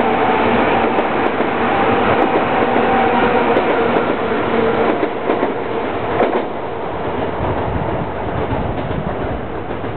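A Tokaido Shinkansen 300 series train pulling out of the station: a steady hum with several held tones over wheel-on-rail noise, with scattered clicks from the wheels on the track. The sound falls off after about six and a half seconds as the train draws away.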